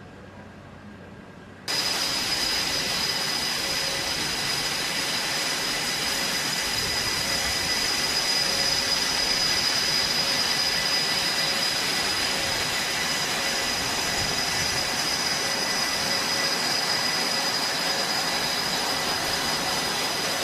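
Jet engine running steadily with a high whine over a wide rush of noise, cutting in abruptly about two seconds in.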